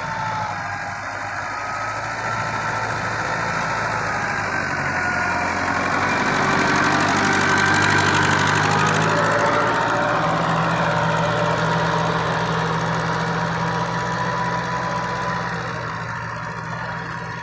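TAFE tractor's diesel engine running steadily, growing louder toward the middle and then easing off again.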